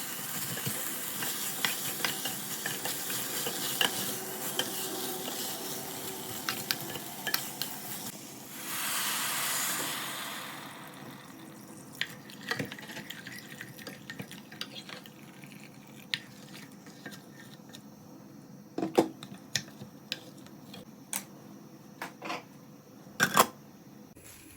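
Spoon stirring in a pan, with a cooking sizzle and frequent small scrapes and clicks. About eight seconds in comes a brief rushing hiss. After that only scattered clinks of utensils and dishes are heard.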